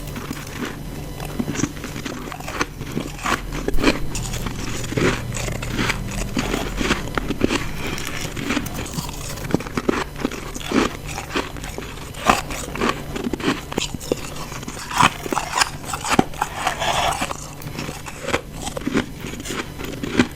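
Person biting into and crunching chunks of ice close to the microphone, with many sharp, crisp crunches in quick succession throughout.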